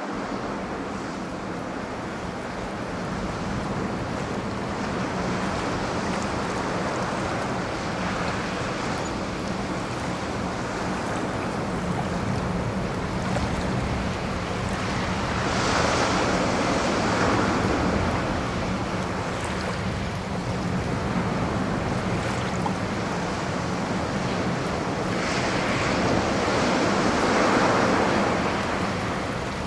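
Ocean surf: waves washing in as a steady rush, swelling louder twice, once around the middle and again near the end.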